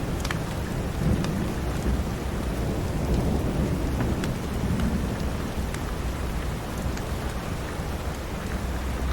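Steady heavy rain with a low rumble of thunder that swells and fades, and scattered sharp little ticks.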